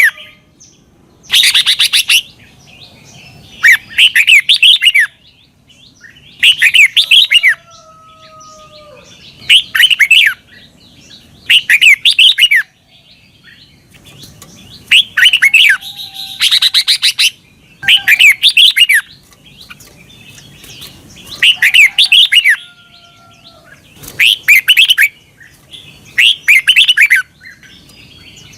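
Red-whiskered bulbul singing: short, loud warbled phrases of about a second each, repeated roughly every two seconds. This is the repeated 'double' song style played to caged bulbuls for them to copy.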